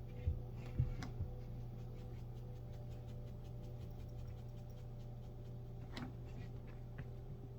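A steady low hum with a few dull thumps in the first second and a half, sharp clicks near the start and about six seconds in, and faint rapid ticking between them.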